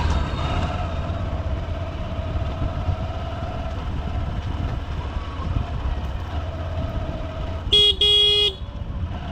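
Honda SP125 single-cylinder engine running in traffic, with a vehicle horn sounding near the end: a very short toot, then a longer one of about half a second.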